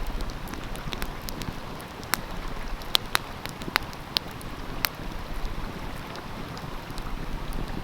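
Wood fire crackling, with scattered sharp pops, over the steady rush of a flowing stream.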